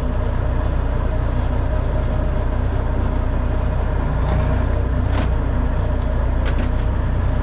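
Semi-truck's diesel engine running steadily, heard from inside the cab as a low, even drone, with a few light clicks about halfway through.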